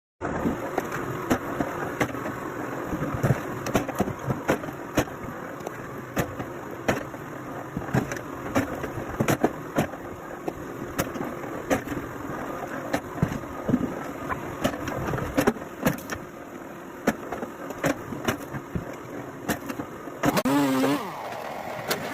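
Machinery running steadily, with frequent irregular knocks and clatter throughout and a short, louder wavering tone near the end.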